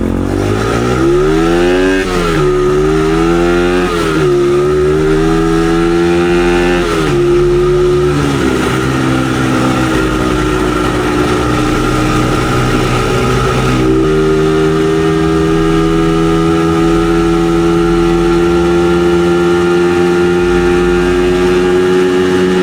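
Dirt bike engine accelerating through the gears: the pitch climbs and drops at each shift three times in the first eight seconds, then holds a steady cruise, stepping up a little about fourteen seconds in.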